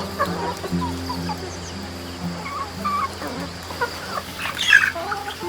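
Chickens clucking, with one louder call about four and a half seconds in, over steady background music.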